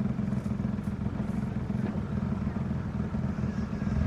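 Narrowboat engine running steadily at low revs, a low even drone.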